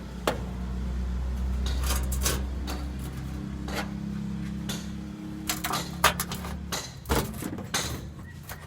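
Metal clanks and knocks from work on a truck transmission, over a steady low hum that stops about seven seconds in; the knocks come thicker and louder toward the end.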